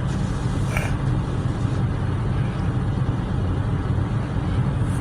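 Idling car engine with the heater and defroster blower on full, heard from inside the cabin as a steady low hum under a rushing hiss. A soft, brief swish about a second in.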